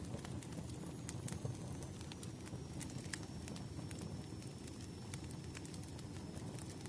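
Wood fire crackling: a steady low rumble of burning logs with scattered, irregular sharp pops.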